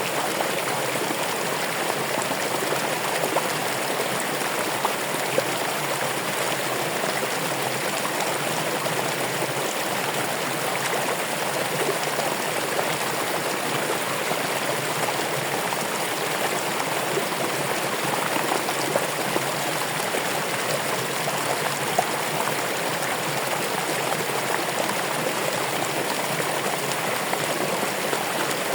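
Running water: a stream flowing and splashing steadily, with small irregular splashes now and then.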